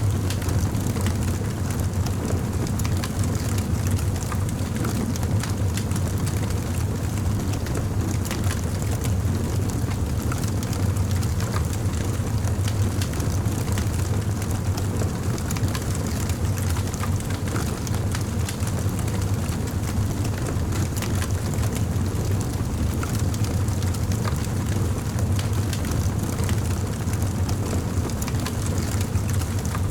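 Campfire burning: a steady low rumble of flames with many small, irregular crackles and pops from the burning wood.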